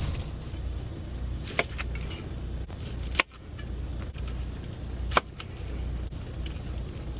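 A few sharp metallic clinks of cooking utensils against a pot, three short hits spread over several seconds, over a steady low hum.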